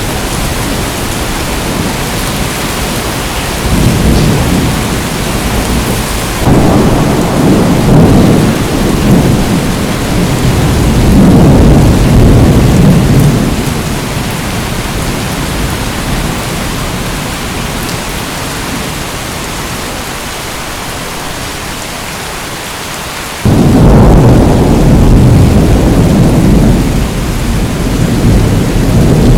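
Steady heavy rain with low rolling thunder that swells several times. One rumble starts abruptly about three quarters of the way through.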